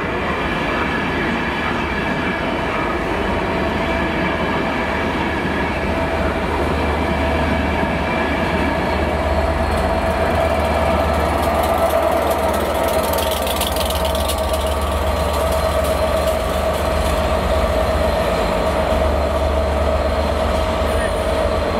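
Passenger train with a Class 67 diesel locomotive running past: a steady rumble of coaches on the rails with the locomotive's engine drone, loudest about halfway through as the locomotive goes by.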